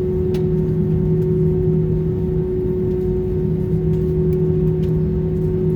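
Airbus A320 cabin noise just after landing: a steady low drone from the engines and air conditioning, with a constant hum and a couple of faint ticks.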